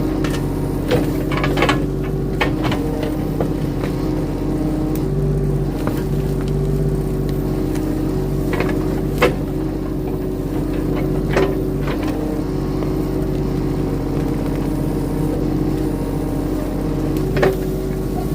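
Skid steer engine running steadily under work, with several sharp knocks and clanks breaking in while the machine digs out small trees by the roots.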